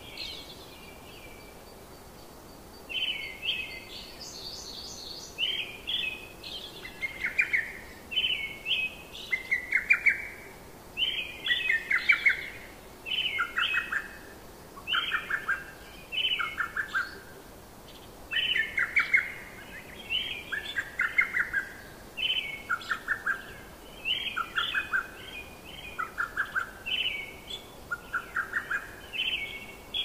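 Songbirds chirping: short, quick trilled phrases follow one another about once a second over a faint steady background hiss.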